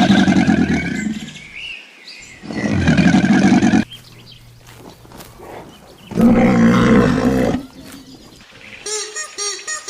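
A large animal roars three times, each call about a second and a half long. Near the end a fainter series of short, quickly repeated calls begins.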